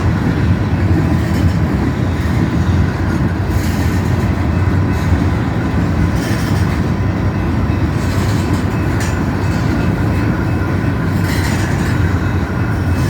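BNSF local freight train rolling past, a steady heavy rumble of wheels on the rails with a few faint clanks and squeaks along the way.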